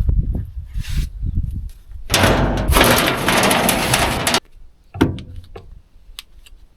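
Machine side shields being handled while belts are checked: low knocks and clunks of metal panels, then a loud rushing noise for about two seconds that cuts off suddenly, then a few light clicks.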